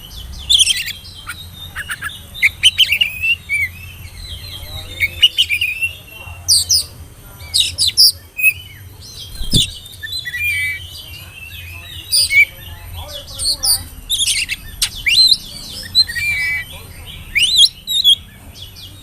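Oriental magpie-robin (kacer) singing: bursts of varied whistles, chirps and rising and falling notes, one phrase after another. A single low thump sounds about halfway through.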